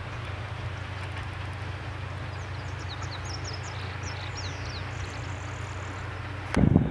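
A steady low rumble with a bird's short, quick high chirps from about two and a half to five seconds in. Near the end, wind suddenly buffets the microphone, louder than anything before it.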